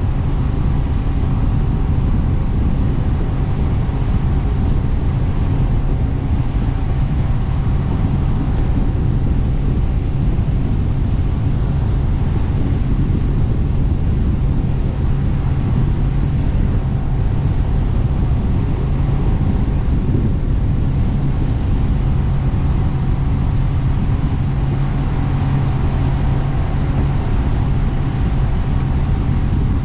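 Jet boat engine running at a steady speed under way: a constant low drone with a few steady tones and no change in pitch.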